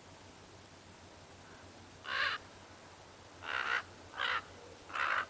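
A crow-family bird giving four short, harsh caws, the first about two seconds in and three more in quick succession near the end.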